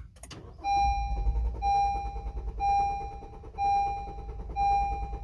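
2020 Honda HR-V's 1.8-litre four-cylinder cranking steadily on the starter without catching, while a warning chime beeps about once a second. A crank-no-start, caused by a failing fuel pump relay.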